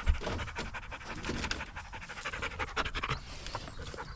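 Dog panting quickly and steadily, with one sharp thump right at the start.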